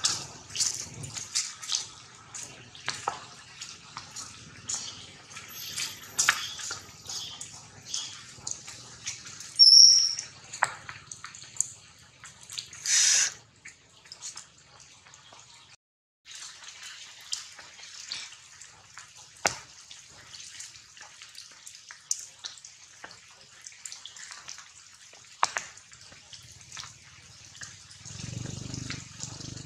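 Rain falling through the trees: irregular drips and splashes on leaves. A short, sharp high squeak cuts through about ten seconds in, and a brief louder splash or rustle comes a few seconds later.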